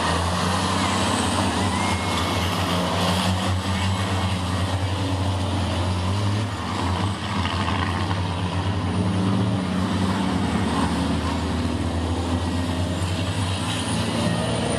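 Diesel engines of racing trucks running on the circuit, a steady low drone that dips briefly about halfway.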